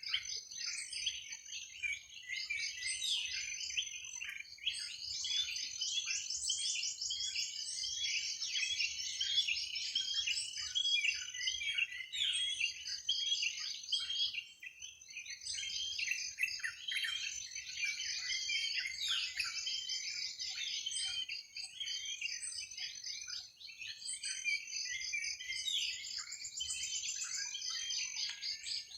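A dense chorus of many small birds chirping and trilling over one another, with a thin, steady high-pitched trill running underneath.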